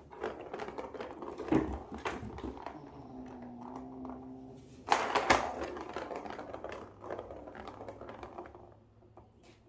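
Kittens batting at a plastic toy: rapid, irregular clicking and clattering, loudest about five seconds in, with a short steady tone shortly before and the clatter dying away near the end.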